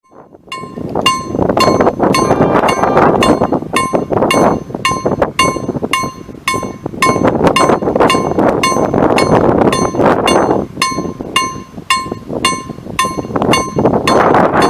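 Level-crossing warning bell (KLD-4013 type) striking steadily, about two rings a second, each with a bright metallic ring. A rushing noise swells and fades underneath.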